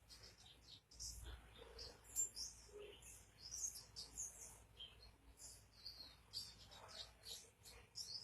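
A white-eye (pleci) singing: a quick, unbroken stream of high, thin chirps and short twittering phrases.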